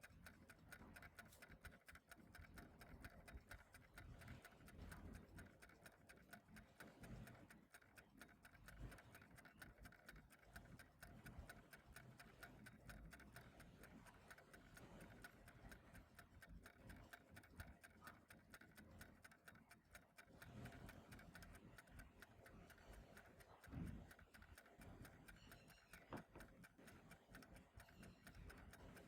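Faint, steady ticking of a clock. A soft low thump about 24 s in.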